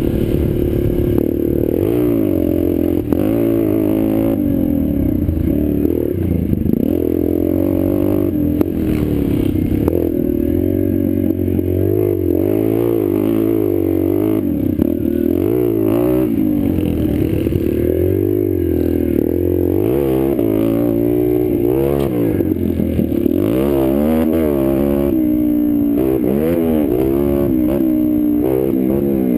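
Small pit bike engine revving up and down over and over as it is ridden around a dirt track, the pitch rising and falling every second or two.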